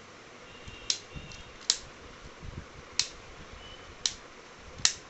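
Five sharp plastic clicks, roughly a second apart, from the white charging case of boAt Airdopes 141 earbuds being handled, with its lid snapping open and shut.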